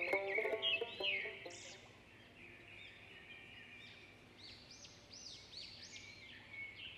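Small birds chirping faintly in short, repeated arching calls. A plucked-string music cue fades out in the first couple of seconds.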